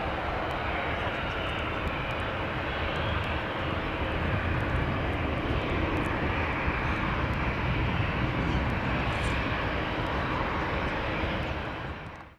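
Rolls-Royce RB211 turbofans of a Boeing 767-300ER at takeoff power, a steady jet rumble that swells slightly, then fades out quickly near the end.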